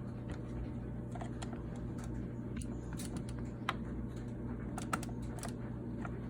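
Irregular light clicks and taps of a butter knife prying against the plastic inside a Keurig coffee maker, over a steady low hum.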